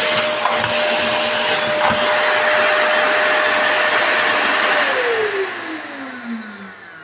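Matsui M85VCB17E vacuum cleaner motor running with a steady rushing whine. It is switched off a little under five seconds in, and its pitch slides down as it winds down.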